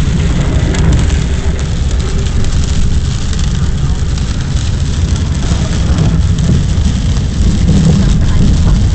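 Steady low rumble of a car driving, heard from inside the cabin, with an even hiss over it.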